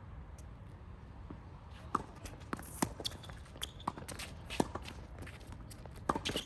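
Footsteps and shoe scuffs of players moving on a tennis court, with a run of sharp knocks and short squeaks from about two seconds in, over a steady low wind rumble.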